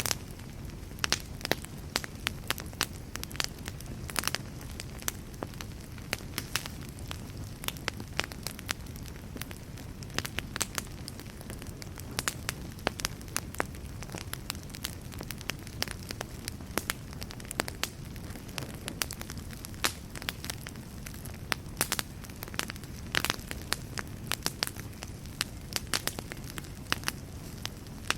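Fire burning in a fireplace: frequent, irregular sharp crackles and pops over a low, steady rumble of flames.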